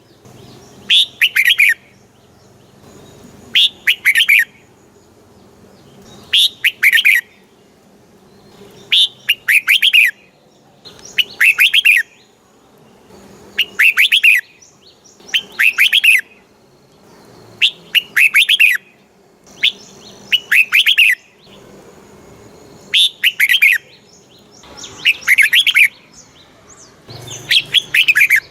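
Red-whiskered bulbul singing: about a dozen short, rich whistled phrases, each roughly a second long, repeated every two to three seconds.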